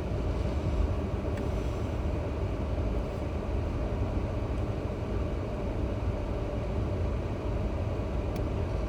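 Steady road and engine rumble inside a moving car's cabin, with a couple of faint clicks.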